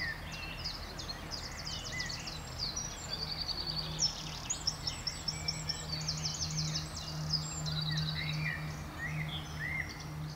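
Several songbirds singing at once, a dense run of rapid trills and short chirps, over a steady low hum.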